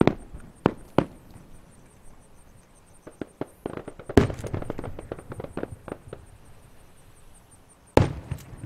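Aerial fireworks shells bursting. There are sharp bangs at the start and about a second in, then a rapid run of crackling reports from about three to six seconds with the loudest bang around four seconds, and one more sharp bang near the end.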